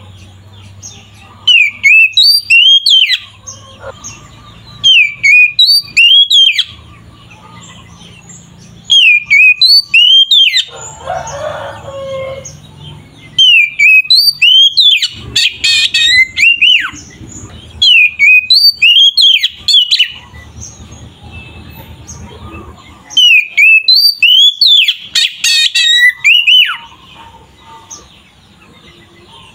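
Oriental magpie-robin (kacer) singing vigorously: loud, clear whistled phrases with quick rising and falling notes, delivered in bouts of one to three seconds with short pauses between them, about six bouts in all.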